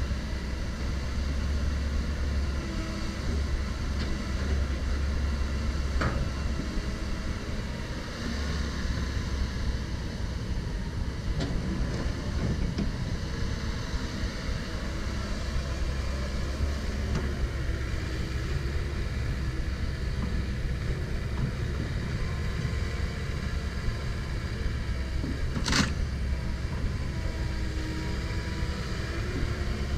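Komatsu PC170LC-10 excavator's diesel engine running steadily with a low rumble and a faint wavering whine. There is a sharp click about six seconds in and a louder clack near the end.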